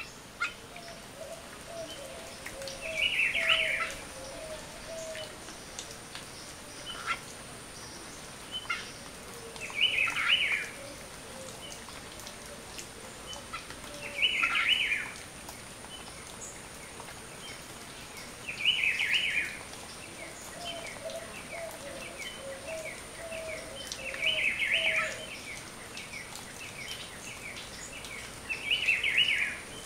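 A bird calling repeatedly: six short, harsh calls about five seconds apart, with quieter runs of lower repeated notes twice in between.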